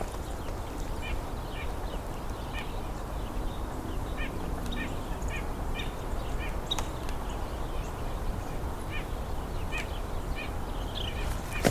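Small songbirds giving short chirps, often in quick pairs, repeating irregularly about once or twice a second over a steady low rumble.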